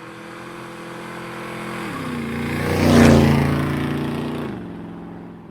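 Motorcycle engine passing by: it grows louder to a peak about three seconds in, then fades away, its pitch stepping down twice.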